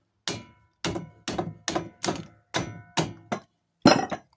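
A big hammer striking a metal part of the minibike's front fork nine times at a steady pace, each blow ringing briefly, the last one near the end the hardest. The stuck part does not give.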